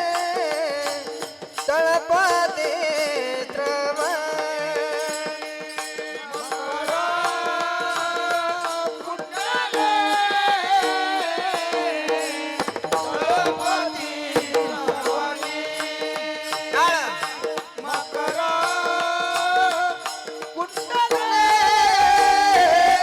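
Devotional bhajan music: a sustained, gently wavering melody over a steady drone, with tabla strokes keeping the beat.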